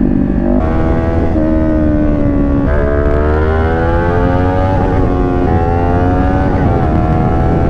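Kawasaki Ninja 500's parallel-twin engine under hard riding. Its pitch climbs and drops several times as the throttle is worked and gears change, with a long rise in the middle.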